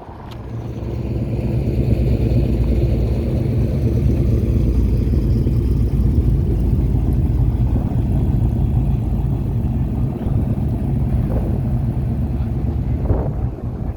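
A car engine running close by with a low, steady exhaust note that builds over the first second or two, holds for about ten seconds and eases off near the end.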